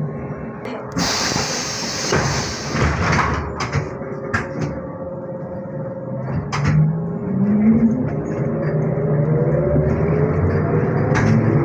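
Inside a ZiU-682G trolleybus: the pneumatic doors close with a hiss of air lasting a couple of seconds, followed by a few knocks. Then the traction motor whine rises in pitch as the trolleybus pulls away from the stop.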